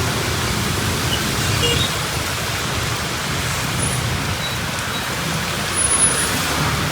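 Steady rain hiss mixed with the rumble of road traffic on a city street.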